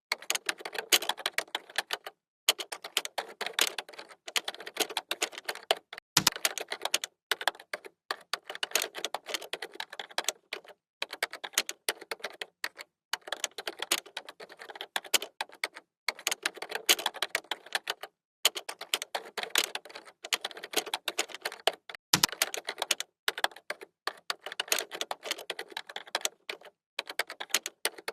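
Computer keyboard typing: quick runs of key clicks in bursts of a second or two, broken by brief pauses, with two heavier thumps along the way.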